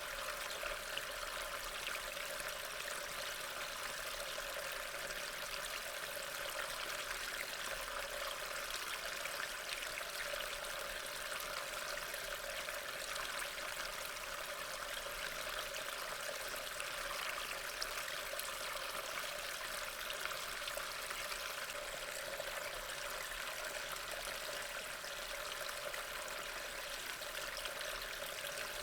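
Steady rain falling: an even hiss of water with a fine patter of drops, unchanging throughout.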